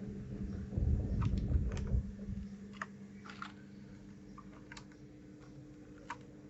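Keys of a mechanical keyboard fitted with new keycaps being pressed one at a time, about seven separate clicks spread out, with a low rumble of handling during the first two seconds over a faint steady hum.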